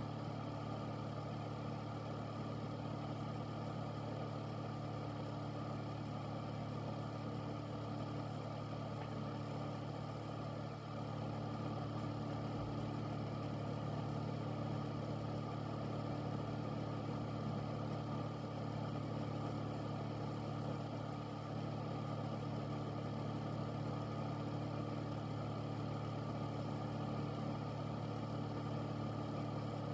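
Air filter unit's fan running steadily: a constant low motor hum under an even rush of moving air.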